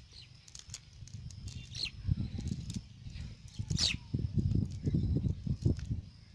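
Bird calls: a short one about two seconds in and a louder one about four seconds in, over uneven low rumbling and a few faint clicks.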